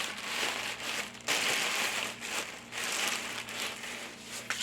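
Plastic shopping bags crinkling and rustling as they are handled and stuffed away, in several irregular bouts.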